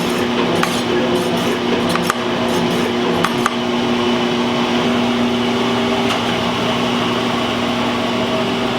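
Metal shaper running through a pass on a mild-steel plate: a steady motor and drive hum with a few sharp ticks in the first half, and the sound changes slightly about six seconds in.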